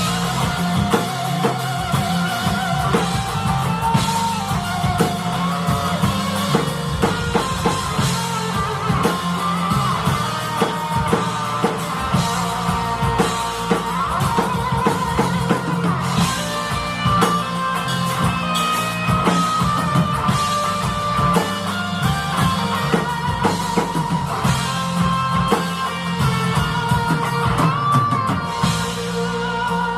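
Live rock band playing: electric guitar over a drum kit, with a melodic line bending in pitch on top.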